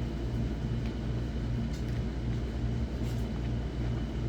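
Steady low rumble that swells and fades slightly, with a few faint clicks.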